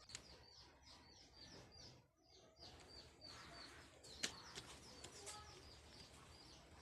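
Faint, rapid, repeated chirping of small birds, several high chirps a second, with one sharp click about four seconds in.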